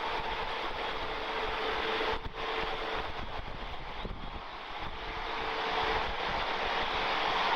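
Airbus A350's Rolls-Royce Trent XWB turbofans running at takeoff power, a steady jet roar with a held humming tone, growing louder near the end. Wind buffets the microphone.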